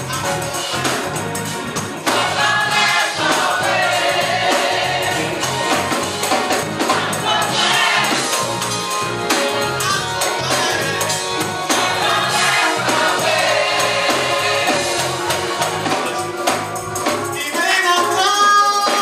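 Gospel choir singing with band accompaniment, a tambourine shaking along and a steady pulsing bass beat.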